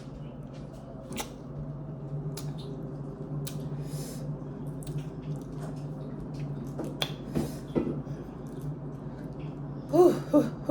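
Close-up wet eating sounds from chewing spicy mussels and shrimp: mouth noises and scattered clicks over a low steady hum. A brief high-pitched, wavering call comes near the end.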